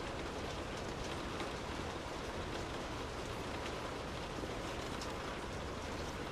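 Steady rain: an even hiss with scattered ticks of individual drops.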